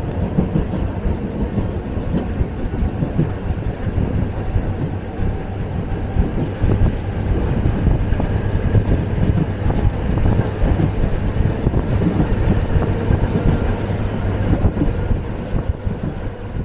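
Running noise of an electric commuter train (elektrichka) heard from inside the carriage while moving: a steady, loud rumble of wheels on the rails with a low hum underneath.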